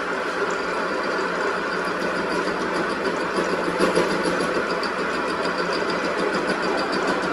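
A machine running steadily, with a fine rapid ticking over an even hum.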